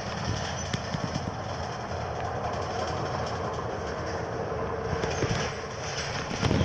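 New Flyer Xcelsior city bus running, a steady low rumble with road noise; a faint steady tone comes in about four and a half seconds in.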